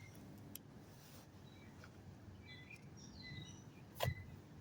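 Faint outdoor background with a few short, high bird chirps, most of them in the middle stretch, and a soft thump about four seconds in.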